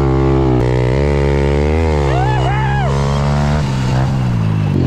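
Honda CRF110 pit bike's small air-cooled four-stroke single running, its revs blipped up and dropped back a couple of times while it waits at the start line. A person's voice comes in briefly about two seconds in.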